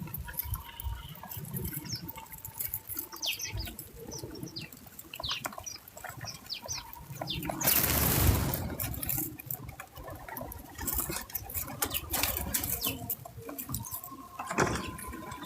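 Backyard feeder birds with short, high chirps over scattered clicks and taps around the feeder. About eight seconds in comes a loud, second-long rush of noise.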